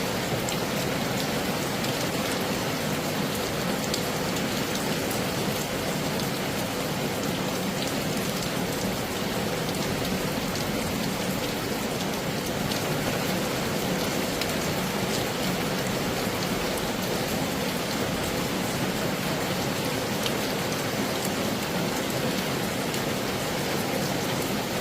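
Heavy rain falling steadily: an even, unbroken hiss with scattered drop ticks.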